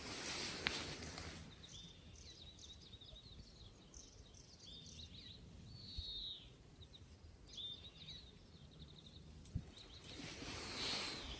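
A songbird singing repeated short, quick chirping phrases with falling notes. A rustling noise comes near the start and again near the end.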